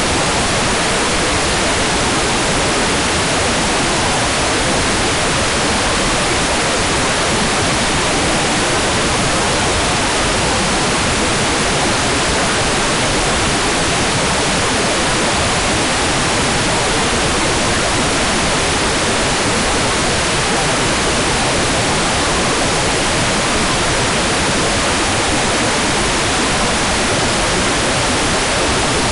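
Hair dryer blowing steadily, an even rushing hiss of air with no change in pitch or level.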